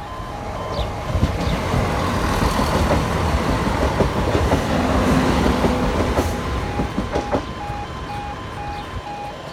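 Class 170 Turbostar diesel multiple unit passing over a level crossing, its sound swelling to a peak midway and then fading, with a few wheel clicks over the rail joints. The crossing's pulsing warning alarm runs underneath and comes through again near the end.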